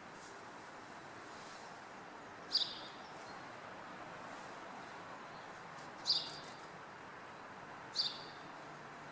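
A bird gives three short, sharp chirps a few seconds apart, over a steady background hum of the town.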